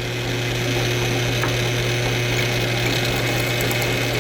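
Electric drill running steadily with a constant motor hum, drilling a small 3/32-inch hole in the faucet handle's lever.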